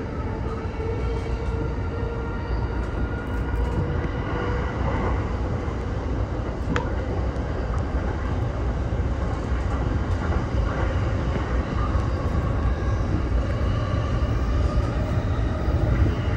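E231 series electric commuter train running on the Tokaido Line, heard from the front of the car: steady rolling noise with a faint motor whine. A single sharp click comes about seven seconds in.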